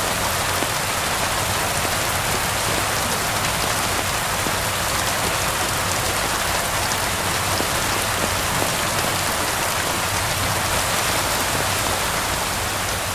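Steady rain falling on surfaces, an even hiss with scattered faint clicks.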